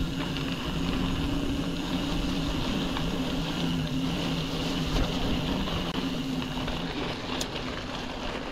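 Mountain bike riding, heard on the rider's action camera: wind and tyre noise with a steady low hum, starting abruptly at a cut.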